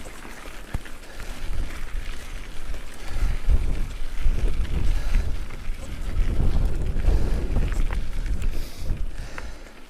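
Wind buffeting an action camera's microphone, a low rumble that swells and falls, over the crunch of mountain-bike tyres rolling on a gravel track.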